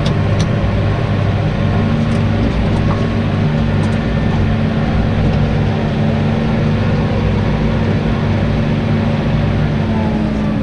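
Tractor engine running steadily at constant revs, a continuous even drone.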